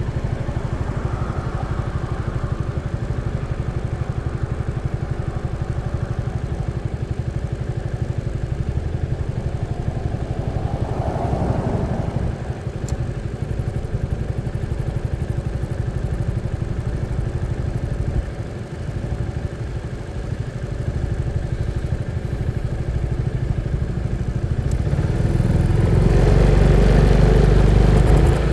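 Motorcycle engine running steadily under way with road and wind noise. It eases off briefly a little past halfway, then grows louder near the end as it picks up speed.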